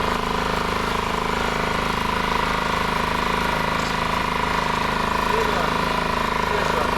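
Small outboard motor on a dinghy running at a steady speed, an even, unchanging engine note.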